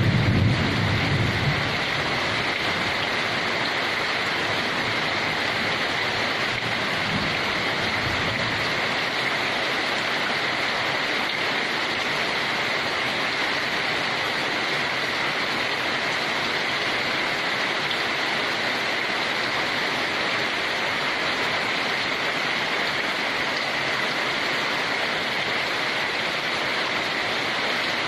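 Steady rain falling, an even hiss with no breaks; a low rumble at the start dies away about two seconds in.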